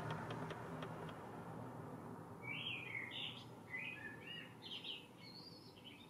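A songbird singing a short run of quick warbled phrases, starting about two and a half seconds in, over a low steady background rumble.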